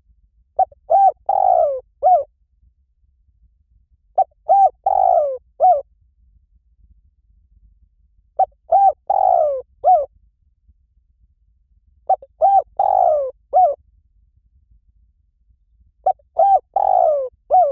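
Spotted dove song: a phrase of short cooing notes with one longer falling coo, repeated five times about every four seconds. It is a dove lure call.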